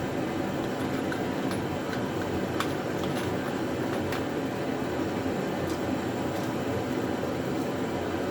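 Steady droning mechanical background noise, with a few faint light clicks scattered through it.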